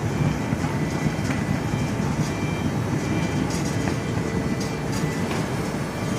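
Potato seed sorting and treatment conveyor line running steadily, a low mechanical rumble with scattered clicks and knocks.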